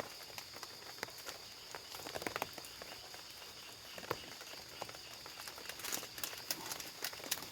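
Forest ambience with a steady, high-pitched insect drone and scattered light taps and clicks, which come more often near the end.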